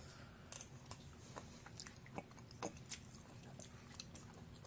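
A person chewing a mouthful of mashed potatoes with corn and cheese: soft, irregular chewing with scattered small mouth clicks.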